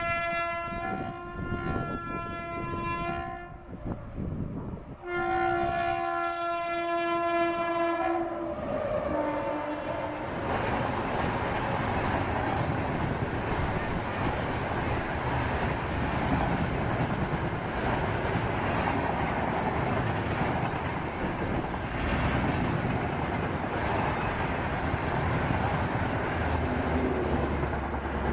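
WAP-7 electric locomotive's horn sounding two long blasts, the second dropping in pitch as the locomotive passes. This is followed by the steady rumble of LHB coaches' wheels running past on the rails.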